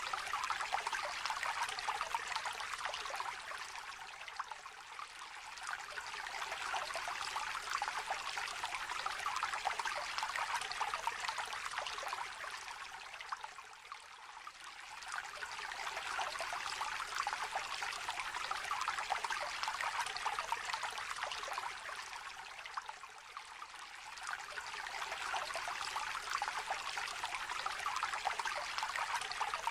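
Shallow stream trickling and babbling over stones, a steady bright rush of water that eases off briefly about every nine seconds and then swells back.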